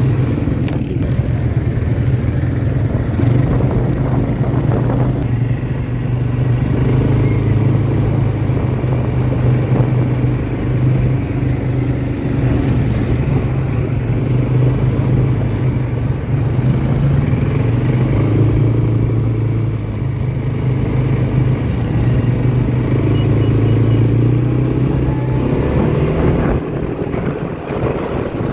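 Quad bike engine running while riding, its steady low drone swelling and easing slightly with the throttle throughout.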